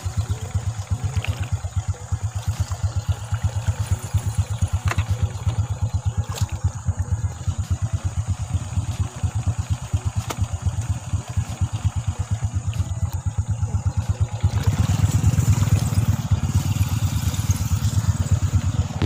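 Honda motorcycle engine running with a steady low putter, growing louder about three-quarters of the way through.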